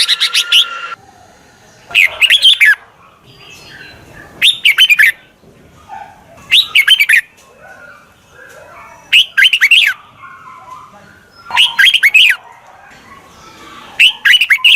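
Red-whiskered bulbul singing: short, quick warbled phrases repeated about every two and a half seconds, six times, with faint chirps between.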